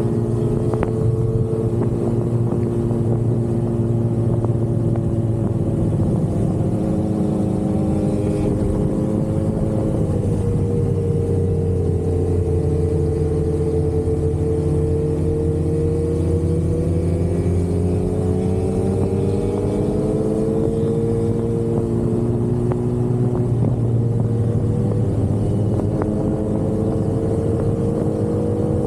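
Sportbike inline-four engine running under way at a steady cruise, its pitch sinking slowly, then climbing, dropping once a little after the middle and climbing again near the end, over a steady rush of wind.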